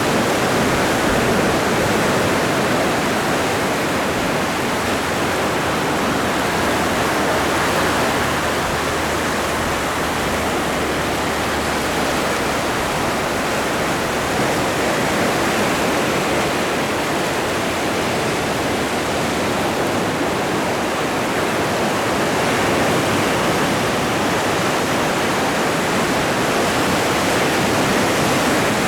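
Atlantic surf: a steady, dense wash of breaking waves with only slight rises and falls in loudness.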